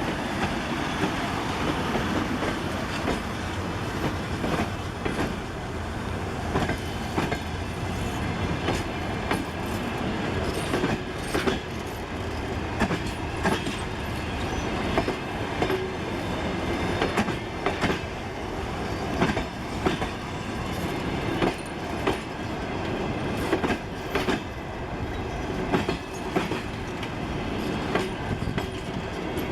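Passenger carriages of an express train rolling along the track, their wheels clicking over rail joints at irregular intervals above a steady rumble.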